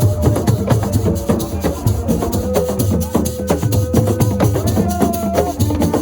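Senegalese assiko percussion music: fast, dense drumming with rattling shaker strokes, and long held single notes over the rhythm.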